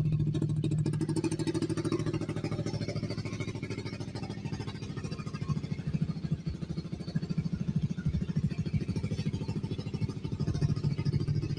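Motorcycle engine running through a loud exhaust, a fast, even stream of firing pulses.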